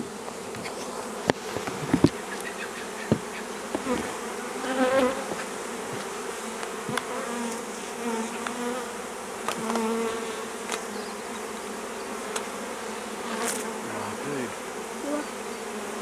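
Honeybees from a freshly hived swarm buzzing steadily around the open hive box, with single bees swelling louder as they fly close. A few sharp clicks stand out about 1 to 3 seconds in.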